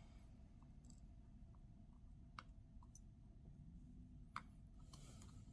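Near silence with a few faint, scattered light clicks of small hand tools handling tiny watch parts.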